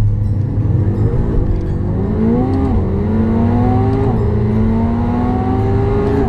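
Twin-turbocharged V8 sports car accelerating hard at full throttle. The engine's pitch climbs, then drops back at upshifts about two and a half and four seconds in, and climbs again.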